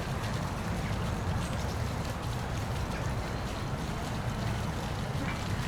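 Steady rushing of a waterfall, falling water running continuously without change.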